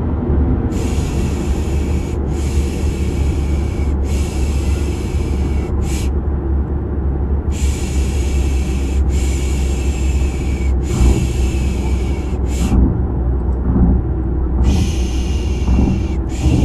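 Steady low rumble of car driving noise with a rhythmic shushing 'shhh' (piş piş) laid over it, as used to calm a baby to sleep. The shushes come in sets of three long hisses of about a second and a half each, then a short one, with a pause of a second or two before the next set.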